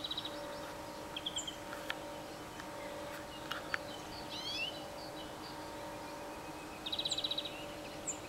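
Small birds singing and calling: short high chirps, a curving warbled phrase about four seconds in, and a rapid trill at the start and again about seven seconds in, over a faint steady hum.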